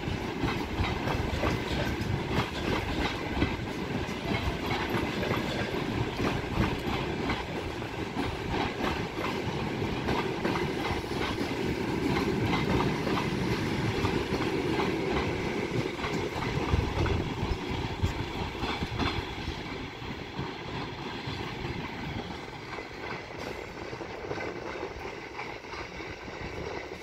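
Passenger train coaches rolling out at low speed, their wheels clattering over the rail joints in a steady clickety-clack over a rumble. The sound fades in the last several seconds as the tail of the train draws away.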